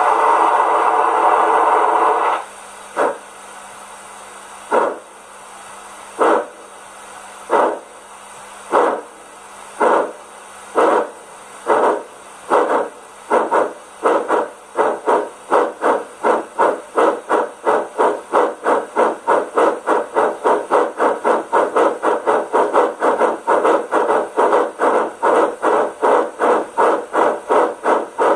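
Steam-locomotive sound decoder in a Rivarossi Big Boy H0 model playing through its small built-in speaker: a steady blast of steam for about two seconds, then the exhaust chuffs of a locomotive starting off, slow at first and speeding up steadily to three or four chuffs a second as the model gathers speed.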